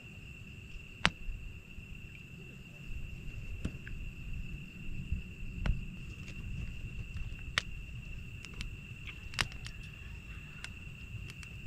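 Wood campfire crackling, with sharp pops every second or two, over a steady high trill of crickets.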